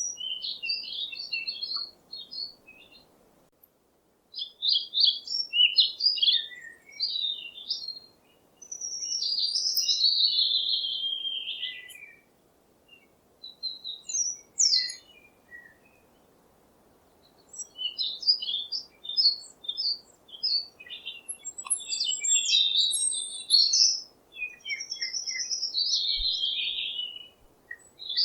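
Songbird chirping and singing in bursts of quick chirps with short pauses between them. A longer warbled phrase slides downward in pitch about ten seconds in and again near the end.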